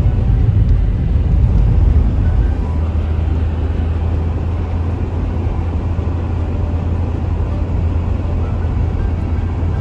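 Car driving, heard from inside the cabin: a steady low rumble of engine and tyre noise, which eases a little about two and a half seconds in.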